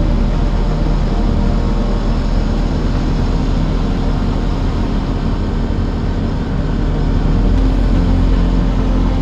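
Aprilia RS 660 Extrema's parallel-twin engine running steadily under way, heard over wind and road noise. The level dips briefly past the middle, then picks up again.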